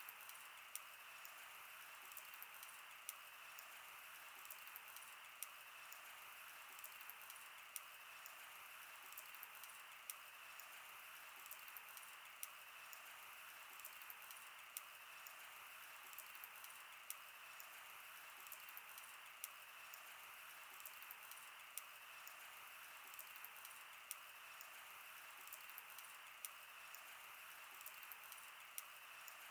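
Wood fire burning: a soft steady hiss with irregular sharp crackles and pops from the burning wood.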